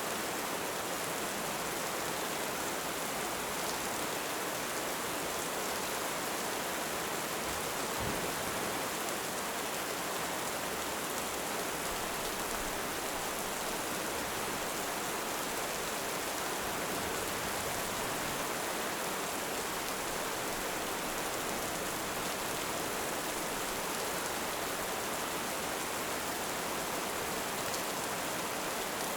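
Heavy rain falling steadily, a dense, even hiss with no rise or fall.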